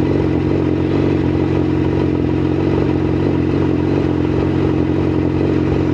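Motorcycle engine and exhaust running at a steady speed on the move, the exhaust loud enough to drown the rider's voice.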